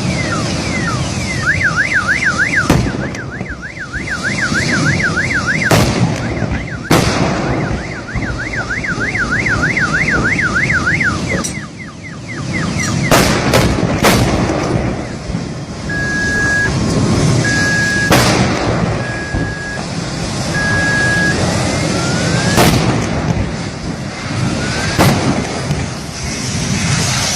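Electronic siren yelping rapidly up and down in pitch, in two spells of a few seconds each, over steady background noise. It is followed by four short beeps at one pitch, with several sharp knocks or bangs scattered through.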